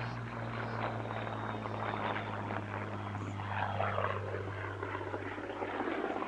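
A Spitfire Mk.Ia's Rolls-Royce Merlin V12 engine running as the fighter flies its display. Its pitch falls as it passes, a little past halfway through.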